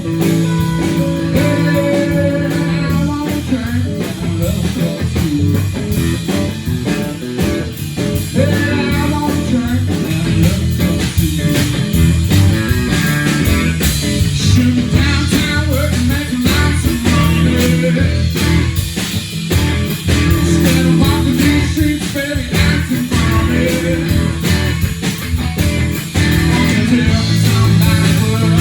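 Live blues-rock band playing, with guitar to the fore over a steady bass line.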